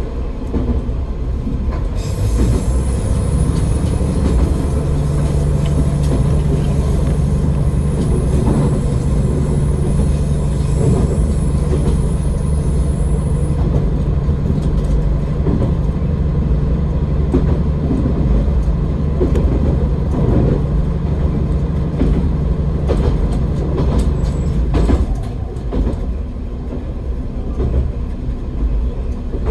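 AN-8800 diesel railcar running along the line, heard from the cab: a steady diesel engine drone with wheels clacking over rail joints. A thin, high wheel squeal sounds from about two seconds in to about thirteen seconds. The engine note eases off about twenty-five seconds in.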